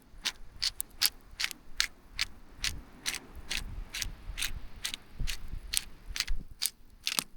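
Hand-twisted pepper grinder being turned, its mechanism clicking and ratcheting in an even run of about two or three clicks a second.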